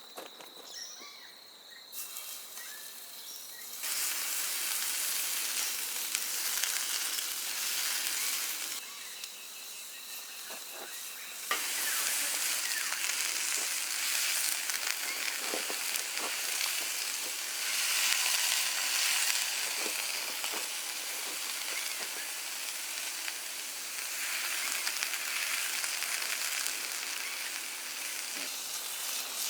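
Smashed burger patties sizzling as they fry, a dense hiss that gets louder in steps about two, four and twelve seconds in.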